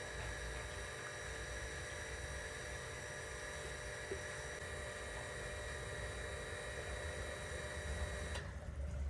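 Steady mechanical hum with several fixed whining tones, which cuts off suddenly a little before the end, leaving a low rumble.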